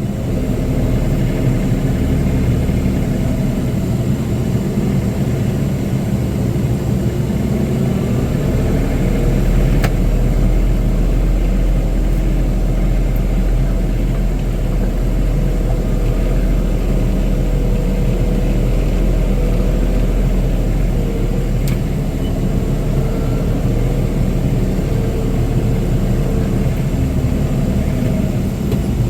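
John Deere compact tractor's diesel engine running steadily as it works, a little louder from about eight seconds in.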